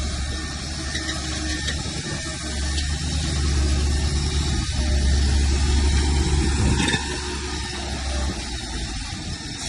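Heavy diesel engine of an earthmoving machine running under load. It grows louder for a few seconds, then eases off about seven seconds in, with a few faint clinks over it.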